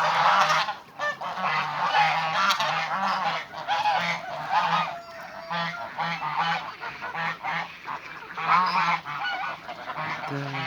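Flock of domestic geese honking, many calls overlapping without a break.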